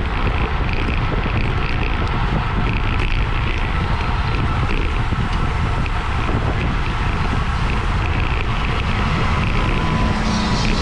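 Steady wind noise buffeting the camera microphone as a bicycle rides at race speed.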